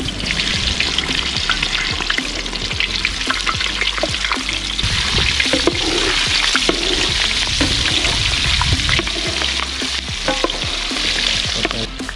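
A whole onion and jalapeño peppers frying in hot pork lard: a steady, loud sizzle thick with popping crackles. A wooden paddle stirs and knocks in the pot.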